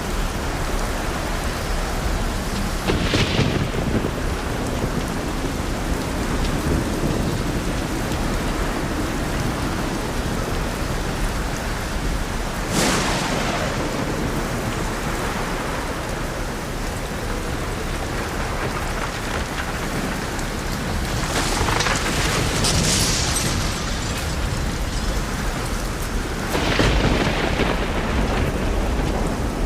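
Thunderstorm with steady light rain: four separate thunderclaps at irregular intervals, each a sudden crack that trails off into rumble, over the constant hiss of rain.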